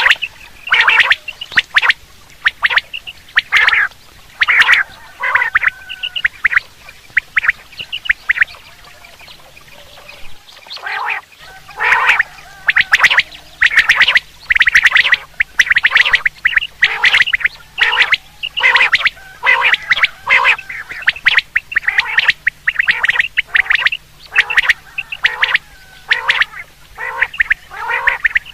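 Common quail calling over and over in quick runs of short, sharp notes, with a short lull about ten seconds in.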